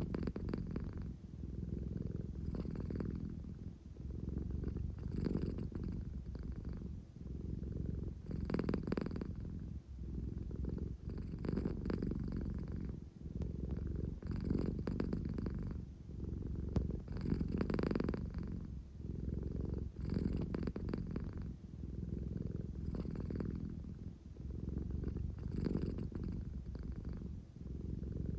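American Shorthair cat purring close up, a steady low rumble that swells and eases with each breath about every three seconds.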